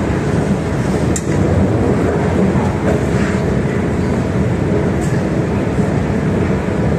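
Passenger train running: a steady rumble with a few faint clicks.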